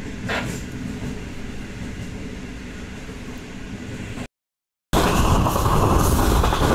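A diesel passenger train running slowly, heard as a steady low rumble. After an abrupt cut about four and a half seconds in, the 8Dn Tezgam Express passes close alongside, a much louder rushing and rattling of its coaches going by.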